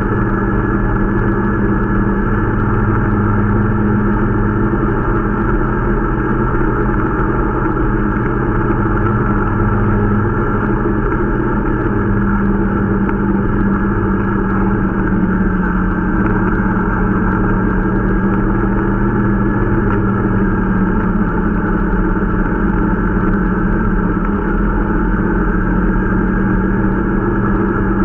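Irbis Dingo T125 snowmobile's 125 cc engine running steadily at a nearly constant speed, its pitch dipping slightly around the middle.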